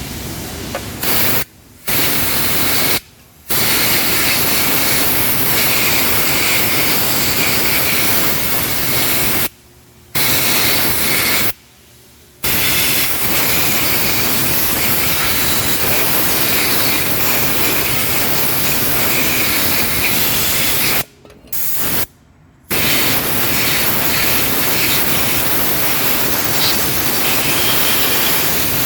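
Compressed-air spray gun hissing loudly and steadily. The trigger is released six times, cutting the hiss off sharply for under a second each time.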